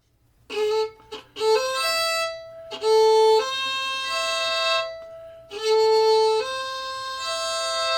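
Solo fiddle bowing a slow passage of double stops, two notes sounding together, in several held phrases with brief gaps between them.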